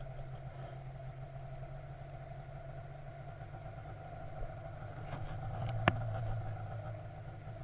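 Vehicle engine running steadily, with a low hum that grows louder and a little deeper from about five seconds in, and one sharp click near six seconds.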